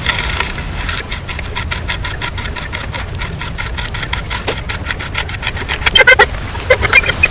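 A rapid run of sharp taps or clicks, several a second, over a low rumble, with a few louder squeaky bursts near the end.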